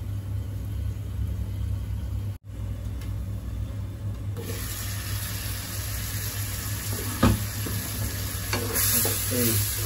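Spinach and methi leaves sizzling and hissing in a wide pan once the glass lid comes off about four seconds in, the leaves' water still being cooked dry, over a steady low hum. A single sharp knock sounds about seven seconds in.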